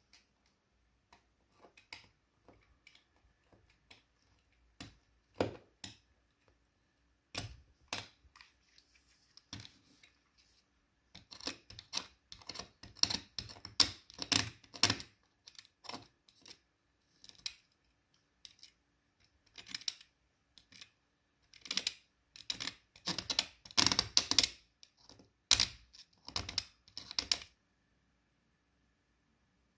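Quick, irregular small clicks and taps of hard parts being handled. They are sparse at first, then come in two busy flurries, one about halfway through and one near the end.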